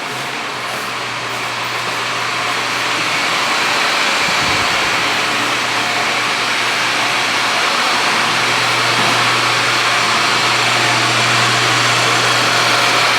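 A steady engine hum under a loud, even rushing noise, which grows louder over the first few seconds and then holds.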